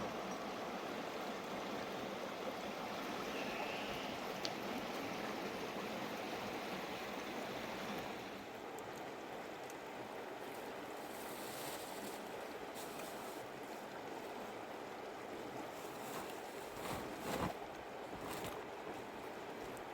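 Mountain river running steadily, a little quieter from about eight seconds in, with a few sharp knocks near the end.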